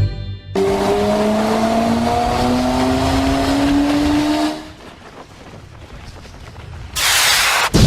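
Cartoon vehicle engine sound effect accelerating, its pitch rising slowly for about four seconds before it drops away. Near the end a loud, noisy blast starts.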